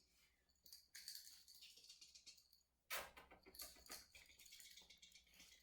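Faint, irregular scratchy pattering, like puppies' paws and claws scrabbling on a floor, with one sharp click about three seconds in.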